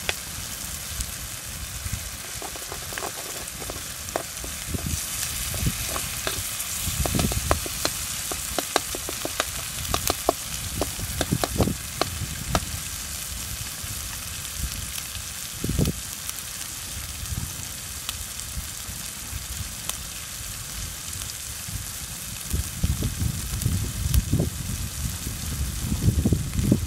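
Tomato-and-egg omelette frying in a blackened pot: a steady sizzle with scattered sharp pops and spits from the bubbling sauce as the egg sets. There is low rumbling in bursts near the end.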